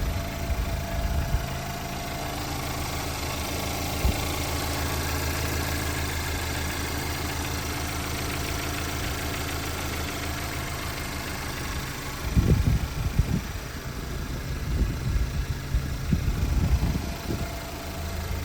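Mahindra XUV700's 2.0-litre turbo-petrol four-cylinder engine idling steadily. In the last third there are irregular low thumps over it, with a single sharp knock about four seconds in.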